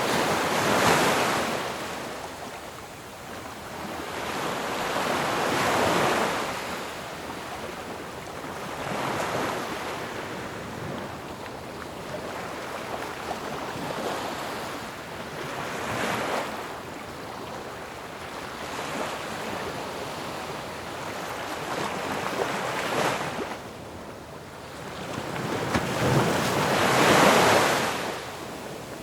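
Ocean waves breaking on a shore, each crash swelling into a hiss of surf and then receding, with gentler surges between the bigger ones. The biggest crashes come about a second in, near six seconds and near the end.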